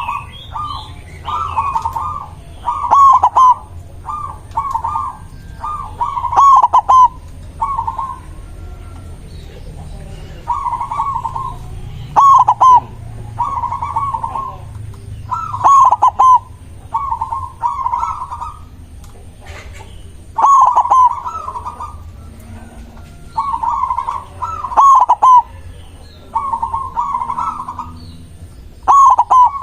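Zebra dove (perkutut) cooing: short bursts of quick, rolling coo notes repeated every second or two, some phrases much louder than others.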